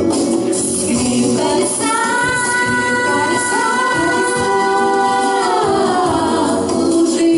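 A song with a voice singing over instrumental accompaniment; about two seconds in the voice holds one long note, which drops away past the middle.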